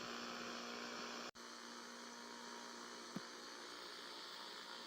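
Faint steady hum with a low hiss, like mains hum or recording noise. It cuts out sharply for an instant about a second in, and there is one faint tick a little past the middle.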